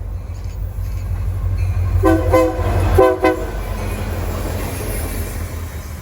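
Train horn sounding four short blasts in two quick pairs, over the steady low rumble of a passing train.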